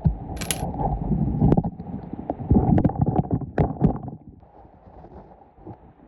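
Creek rocks and gravel clacking and knocking together as they are lifted and shifted by hand, with scattered sharp knocks over a low rumble for the first four seconds, then quieter.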